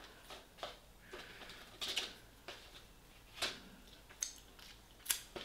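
Takeaway food packaging being handled: short, scattered rustles and clicks every half second to a second.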